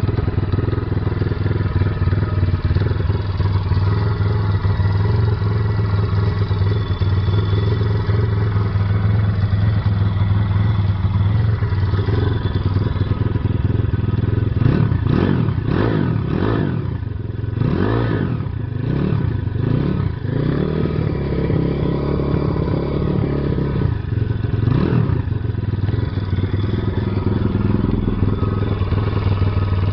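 Pitpro 140XR pit bike's 140cc four-stroke single-cylinder engine idling, then revved in several short throttle blips about halfway through and once more a few seconds later, settling back to idle. The engine is freshly run in. The sound is recorded through a camera phone's microphone and is thin in the highs.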